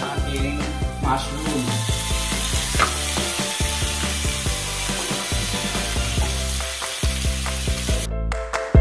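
Oil sizzling in a wok as chopped onion, garlic and crushed beef cube are stirred with a wooden spatula, and sliced mushrooms are tipped in. The sizzle grows louder about a second and a half in and cuts off suddenly near the end.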